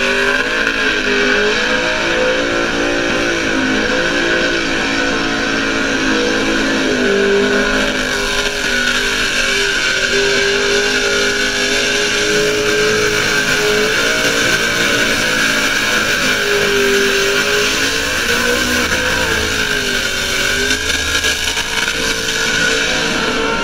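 Burnout car's engine held at high revs during a skid, its pitch wavering up and down, over a steady haze of noise from the spinning rear tyres.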